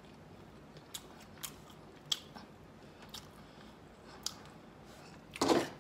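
A person biting and chewing crunchy spicy fried chicken, close to the microphone: sharp crunches spaced about a second apart, with a louder, longer one near the end.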